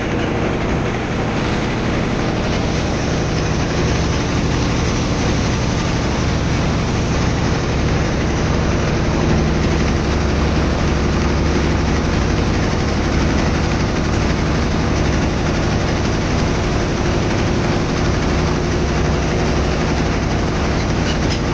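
Motorboat engine running steadily, a constant low hum with a steady drone.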